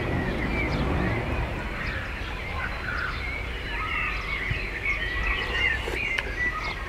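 Songbirds singing: many short chirps and warbling trills, over a low steady rumble.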